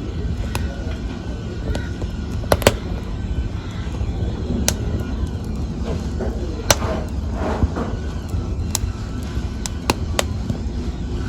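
Wood fire burning with a steady low rumble, broken by sharp crackles and pops at irregular intervals, the loudest a close pair about two and a half seconds in and another near the middle.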